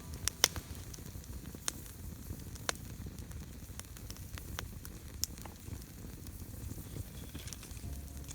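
Wood campfire burning with a steady low crackle and scattered sharp pops, the loudest about half a second in.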